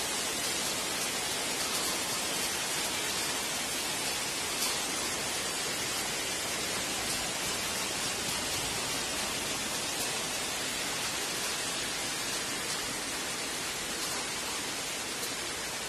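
Steady rain falling on clay roof tiles and wet concrete: an even hiss, with a few sharper drips now and then.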